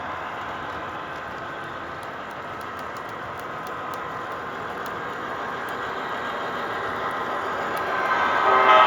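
Sound systems of MTH model diesel locomotives running, playing a steady diesel engine rumble that slowly grows louder. A locomotive's horn starts sounding near the end.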